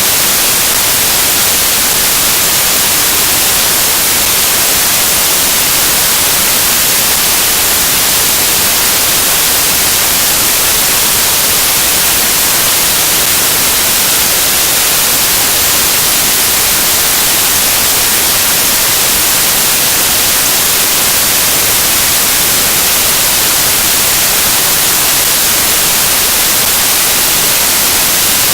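Loud, steady static hiss like white noise, even and unchanging, strongest in the high end.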